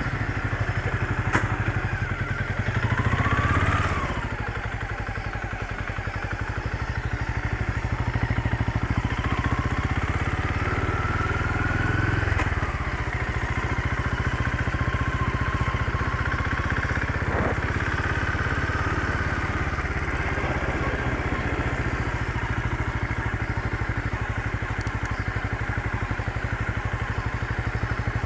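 Motorcycle engine running while riding, with a fast, even firing pulse. Its pitch rises as it accelerates about three seconds in and again around ten to twelve seconds, and a single short click comes a little past halfway.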